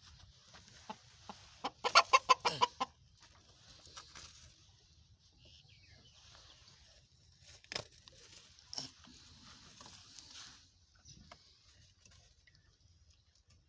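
Birds chattering, with a loud run of rapid pulsed calls about two seconds in, then softer high chatter and two sharp clicks later on.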